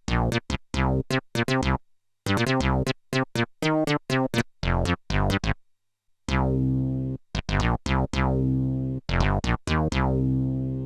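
Yamaha SY22 synthesizer being played: quick runs of short, bright notes that die away fast, broken by two brief pauses. About six seconds in it changes to longer held notes with a deep low end.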